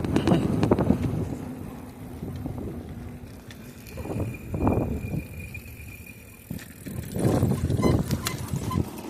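Riding noise of an electric bicycle on a road: a low rushing of tyres and air that swells about four and a half and seven and a half seconds in. A faint steady high whine runs for a couple of seconds midway.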